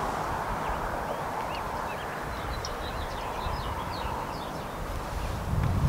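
Small birds chirping faintly now and then over a low rumble, with a passing vehicle fading away at the start.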